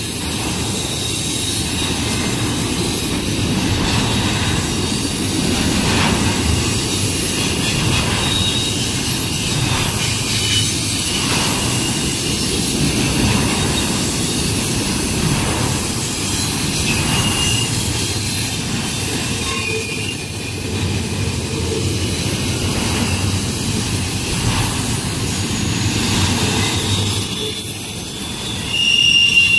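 Freight train of double-stack container well cars and trailer-carrying spine cars rolling past close by: a steady rumble of steel wheels on rail with faint knocks as wheel sets go over the rails, and brief high wheel squeals, one louder near the end.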